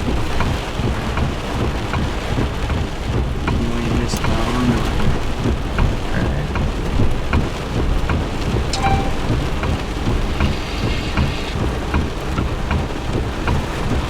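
Heavy rain pouring down, many separate drops ticking over a steady low rumble.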